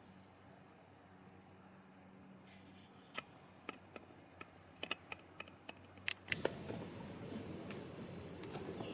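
Crickets trilling steadily in a high chorus, with a few faint clicks in the middle; the trilling gets louder about six seconds in.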